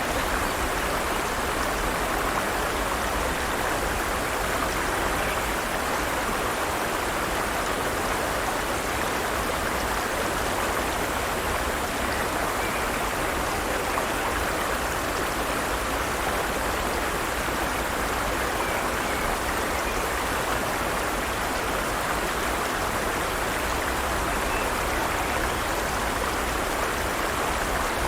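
Forest stream flowing steadily: an even rushing and babbling of water over rocks.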